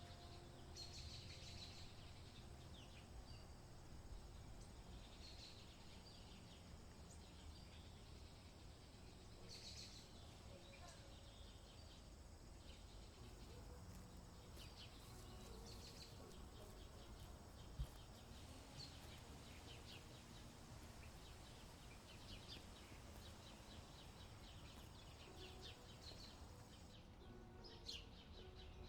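Faint outdoor ambience: a low steady rumble with scattered faint, high chirps of small birds, and a single sharp click about 18 seconds in.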